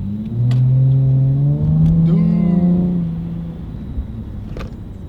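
A car engine revving: its pitch rises about half a second in, climbs again and holds for a couple of seconds, then falls away.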